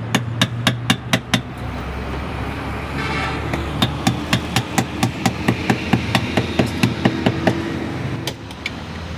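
Rapid, regular sharp knocks like hammer taps, about four a second, in two runs with a pause of about two seconds between, over a steady low background hum.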